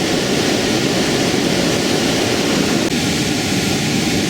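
Steady, dense rush of whitewater rapids around a raft.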